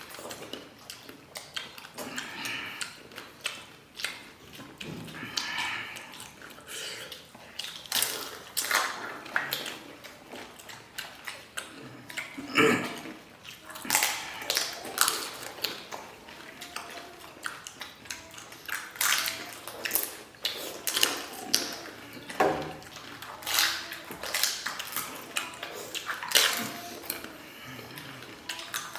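Panipuri being eaten: crisp fried puri shells cracking and being chewed, in irregular crunches and clicks.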